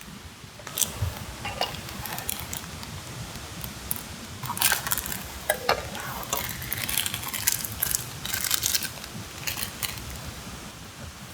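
Camp cooking: irregular clinks and scrapes of a utensil against metal cookware, busiest in the middle stretch.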